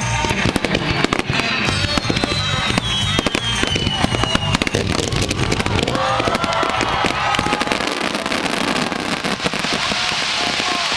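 Fireworks bursting and crackling densely and without pause, over music with a beat that fades out about eight seconds in. After that a hissing crackle takes over.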